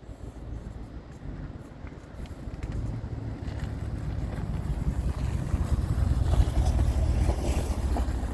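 Truck engine running with a low rumble that grows louder from about three seconds in, with wind on the microphone.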